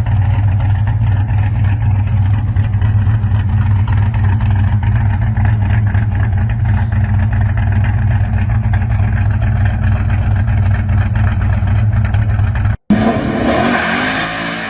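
Muscle car's big engine running with a steady, deep rumble at low revs. Near the end it cuts off abruptly and gives way to another car engine whose pitch rises and falls.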